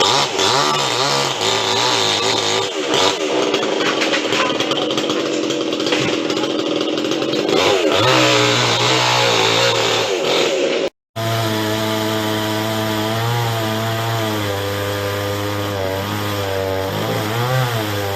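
Chainsaw engine running and revving up and down as it cuts wood. The sound breaks off sharply for a moment about eleven seconds in, then resumes.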